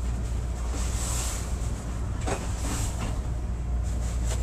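Steady low hum of a stopped Chicago 'L' rapid-transit car standing at an elevated platform, with a couple of faint clicks.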